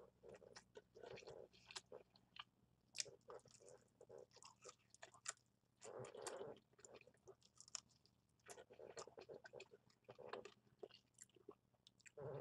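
Faint chewing and biting into a fried chicken drumstick: irregular wet mouth clicks and smacks.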